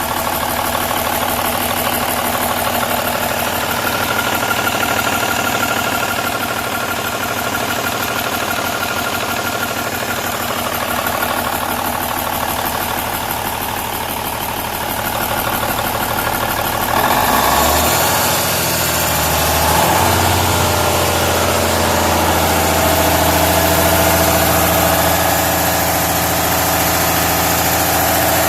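Cummins N14 Celect Plus inline-six diesel engine idling steadily, then about seventeen seconds in brought up to a higher speed and held there, running louder.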